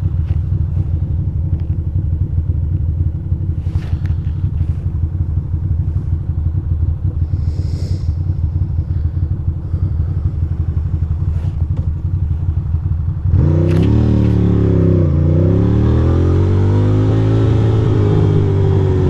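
2006 Ducati Monster 620's air-cooled L-twin engine ticking over with a low, even beat, then opening up about thirteen seconds in. The engine note climbs, drops at a gear change and climbs again as the bike accelerates.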